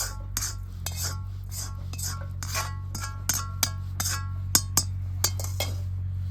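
Metal utensil clinking and scraping against metal cookware in irregular strikes, several leaving a short ring, the sharpest about four and a half seconds in, over a steady low hum.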